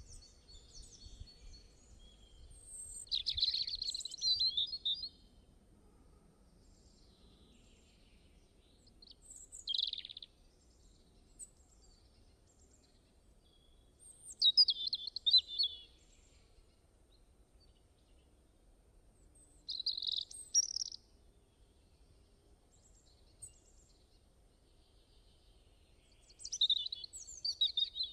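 Songbirds singing in short phrases of high chirps and trills, one every five or six seconds, over faint background hiss.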